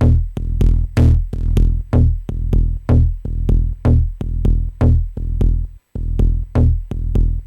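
Electronic dub techno groove from a Maschine drum machine loop: a steady, deep kick pulse about twice a second with crisp high percussion ticks. The loop cuts out for an instant just before 6 s, then carries on.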